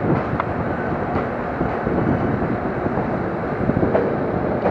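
Electric limited express train rolling slowly into a station platform: a steady rumble of wheels on rail with a few light clicks.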